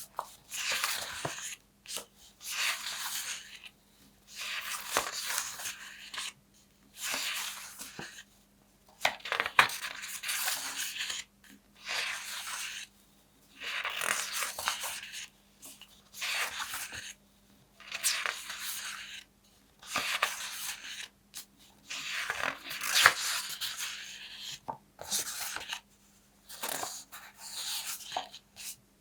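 Paper being handled and torn up close, in repeated bursts of a second or two with short pauses between, about a dozen in all.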